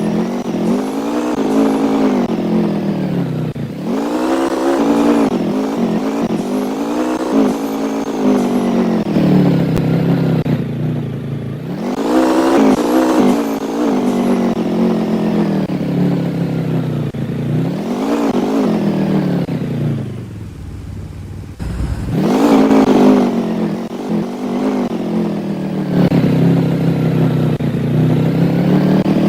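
An engine revving up and falling back over and over, every few seconds, with a brief drop to a lower, quieter note about two-thirds of the way through.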